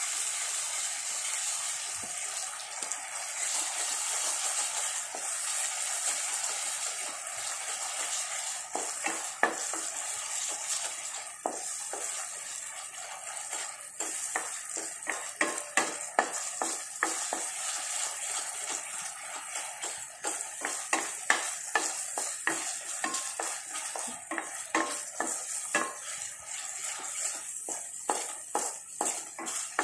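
Ground masala paste sizzling as it fries in oil in a nonstick kadai, stirred with a wooden spatula that scrapes and taps against the pan, the strokes coming thick and fast from about nine seconds in.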